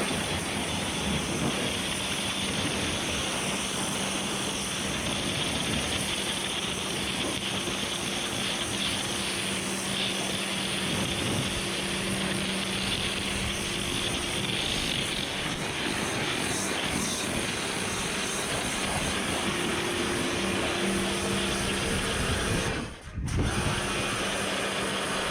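Kärcher high-pressure washer spraying, a steady hiss of water over the constant hum of its pump motor. The sound drops out for a moment near the end.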